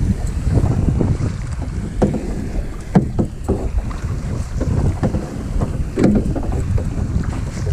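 Wind buffeting the microphone in a low, steady rumble while kayaking, with a few sharp knocks and splashes from the paddle and hull, at about two, three and six seconds in.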